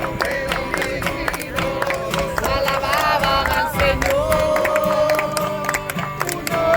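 A group singing a worship song with strummed acoustic guitar, holding long notes.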